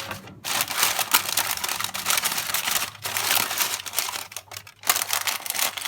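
Baking paper and aluminium foil crinkling as they are handled, in three long stretches with short pauses between them.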